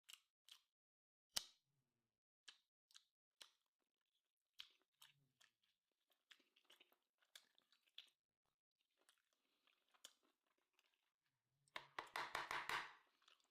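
Quiet close-up chewing of a person eating meat, with small wet mouth clicks and smacks, then a louder, denser spell of eating noise about twelve seconds in.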